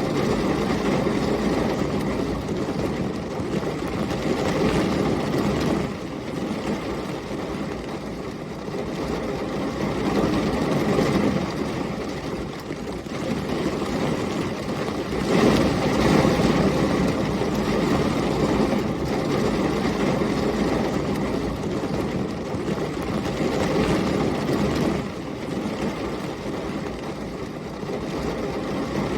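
Heavy rain with storm wind, a dense steady rushing noise weighted toward the low end that swells and eases, loudest about halfway through.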